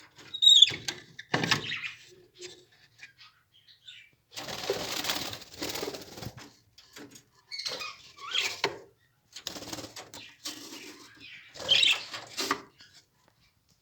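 Pet lovebirds in their cage: irregular bursts of wing flapping and scuffling, with a few short calls mixed in.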